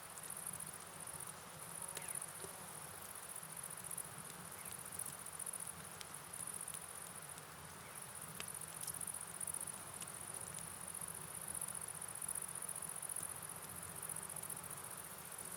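A chorus of night insects chirring steadily at a high pitch over a soft, even hiss of rain and flowing river water, with a few faint ticks scattered through it.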